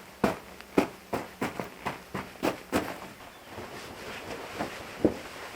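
Pieces of dry firewood knocking and clattering together as they are stacked: a quick run of irregular wooden knocks for about three seconds, then a few sparser ones, with one louder knock near the end.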